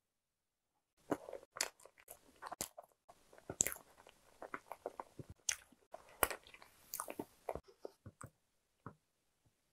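Close-miked chewing of a mouthful of bread: after a second of silence, a dense run of small wet clicks and smacks that thins out to a few scattered clicks near the end.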